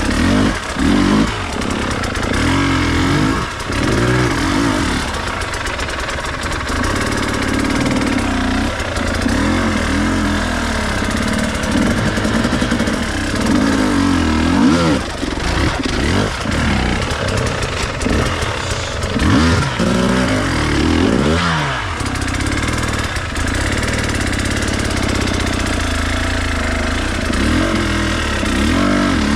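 Enduro dirt bike engine running under load, its pitch rising and falling again and again as the throttle is worked over rough off-road ground.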